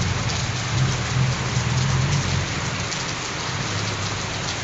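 Steady heavy rain falling and splashing on hard surfaces, with a low rumble underneath that fades out about halfway through.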